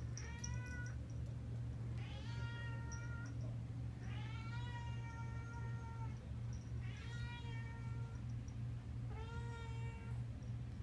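Domestic cat meowing five times with drawn-out calls, the middle one the longest, while carrying a toy in her mouth, over a steady low hum.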